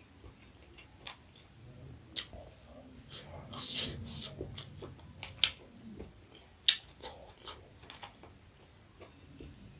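Close-up eating sounds of a person chewing and biting into jhol momo, soft wet mouth sounds broken by a few sharp clicks. The loudest clicks come about two, five and a half and nearly seven seconds in.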